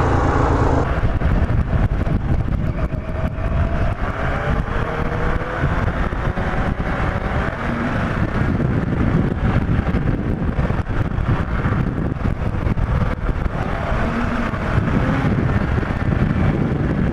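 Sport motorcycle ridden along a rough forest road: the engine runs on under wind buffeting on the microphone, with many small knocks and rattles throughout.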